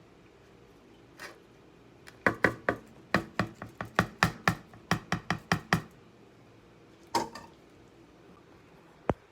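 Knife chopping food against a board: a quick run of sharp strokes starting about two seconds in and lasting three to four seconds, with single knocks before and after.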